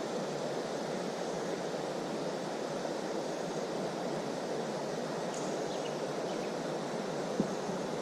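Steady rushing of creek water, with one short knock near the end.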